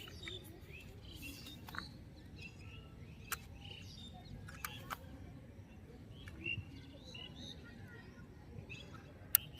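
Birds chirping in short scattered calls, with a few sharp clicks, the loudest one near the end.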